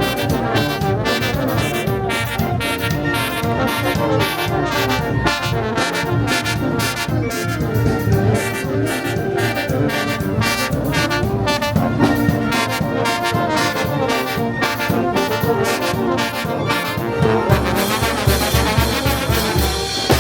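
Peruvian brass band playing, with trombones and trumpets over a steady percussion beat of about two strokes a second. Near the end the sound fills out, with more hiss and a heavier bass beat.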